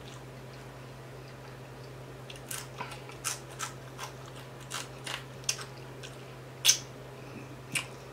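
Close-miked chewing of crispy whole fried tilapia: after a quiet start, about ten short, sharp crunches and mouth clicks, the loudest a little before the end, over a low steady hum.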